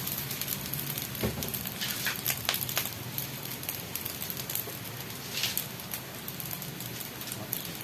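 Chicken adobo crackling and sizzling in a pan, with soy sauce and water just added, over a steady low hum.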